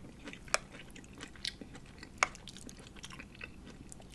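Close-miked chewing of tender pot roast and vegetables, with small wet mouth clicks and two sharper clicks about half a second and two seconds in.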